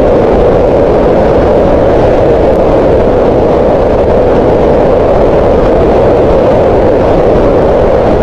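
Green noise: a steady, unchanging rush of synthetic noise, strongest in the middle of the pitch range, played loud.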